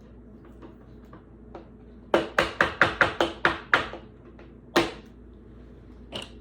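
A quick run of about eight sharp taps, then two more single taps, from a stack of trading cards being handled and tapped against a tabletop.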